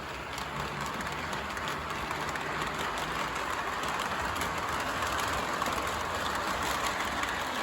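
O gauge model train rolling steadily on the track: a Lion Chief Plus diesel locomotive pulling a long, heavy string of cars, with wheel and rail noise and a faint low hum.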